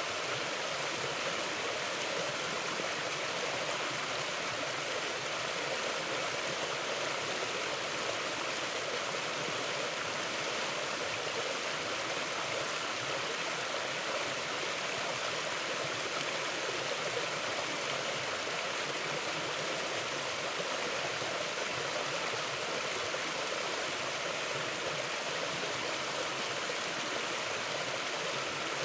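Mountain river flowing steadily over rocks: an even, continuous rush of water with no breaks.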